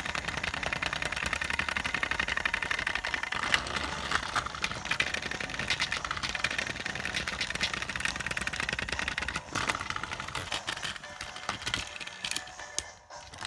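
A small engine running with a fast, dense rattle that thins out and fades after about ten seconds.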